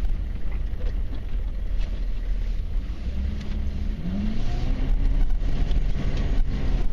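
The 1994 Chevy Silverado K1500's 6.5-litre turbo-diesel V8 running under a steady low rumble, heard from inside the cab. It revs up about four seconds in and holds the higher speed for a couple of seconds as the truck is driven sideways on snow.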